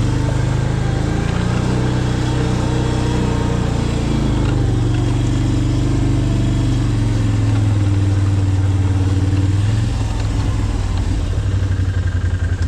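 Small vehicle engine running steadily under way, its pitch shifting slightly. Near the end it drops to a lower, pulsing idle.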